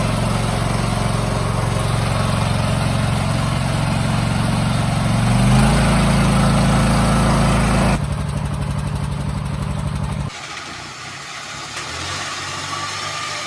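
Walking-tractor engines running, rising in pitch about five seconds in. The sound changes abruptly twice in the second half, ending on a quieter engine running steadily.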